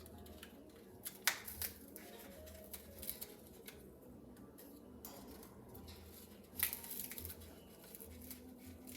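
Faint scattered clicks and plastic rattles from an African grey parrot working at the bottle caps of a rope foraging toy to get at a treat. The loudest come about a second in and again near seven seconds, over faint background music.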